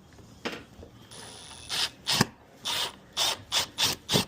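A screw being driven by hand with a screwdriver into the plastic door panel: a run of short rasping strokes, about three a second, starting about two seconds in.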